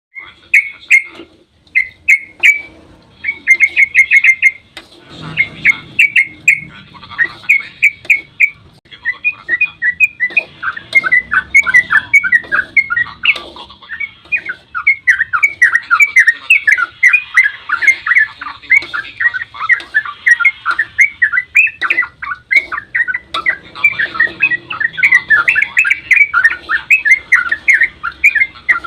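Yellow-vented bulbul (trucukan) singing a long, rapid run of bubbly chattering notes, starting in short bursts and becoming an almost unbroken stream from about ten seconds in.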